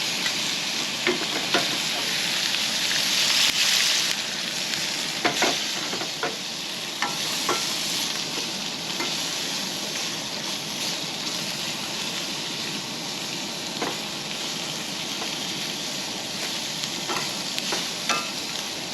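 Peppers and jalapeños sizzling in a skillet, with a spatula scraping and tapping now and then.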